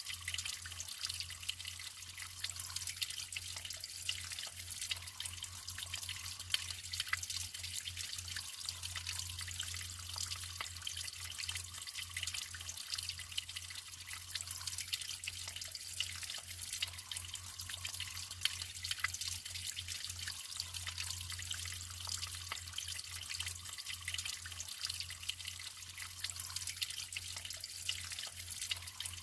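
Natural water running and trickling steadily: an even splashing hiss full of small drips and drops, with a low steady rumble underneath.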